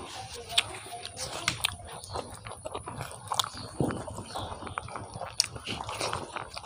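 Close-miked mouth sounds of a person biting and chewing tandoori chicken and biryani rice eaten by hand: irregular wet smacks and sharp clicks, with some crunching.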